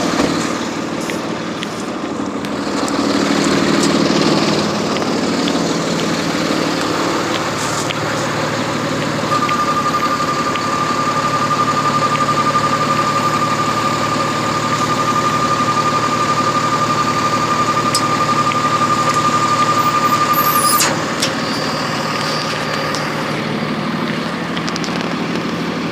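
Work truck's engine running at the dump while the truck dumps its load. The engine gets louder for a few seconds early on. A steady high-pitched whine sounds over it for about eleven seconds in the middle, then cuts off with a click.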